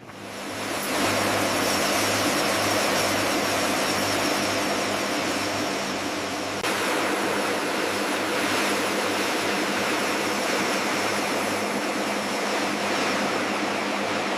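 Aircraft turbine engine running steadily: a loud, even rushing roar with a faint high whine and a low pulsing throb, swelling up over the first second. The sound shifts abruptly about halfway through.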